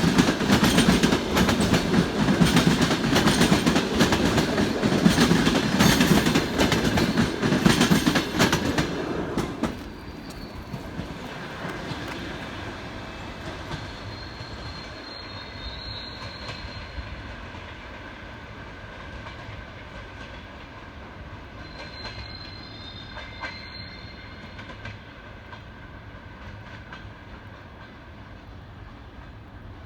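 Passenger train carriages rolling past, wheels clattering over the rail joints, loud until about ten seconds in, when the sound drops off suddenly to a quieter rumble. Faint high wheel squeals come twice later on.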